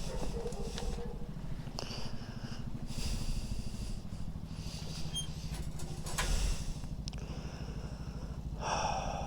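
Mini motorcycle's small engine running at a steady idle, pulsing evenly with no change in revs, with a few small clicks and a brief rustle near the end.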